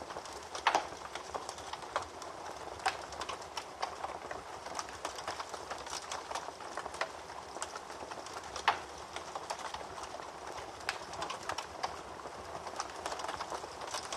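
Wood fire crackling in a fireplace: irregular sharp pops and snaps over a soft steady hiss, with a few louder pops, one about a second in and another near nine seconds.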